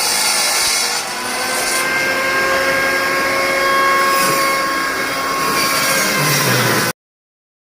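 Wood-Mizer band sawmill running, a steady mechanical noise with a high whine in several tones; it cuts off suddenly near the end.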